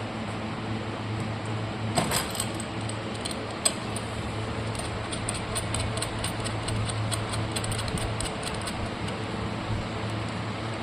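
A run of light clicks and rattles, like small hard parts being handled, over a steady low hum; the clicks start about two seconds in and stop a couple of seconds before the end.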